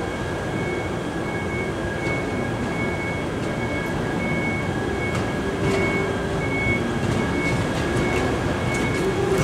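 Toyama Chiho Railway electric train rolling slowly toward the station over pointwork, with a steady running noise. Throughout, a high electronic beep repeats a little under twice a second, and a lower hum rises in the second half as the train draws closer.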